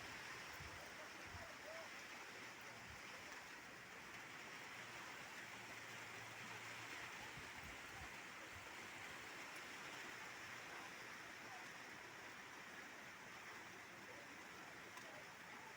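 Faint, steady hiss of falling rain.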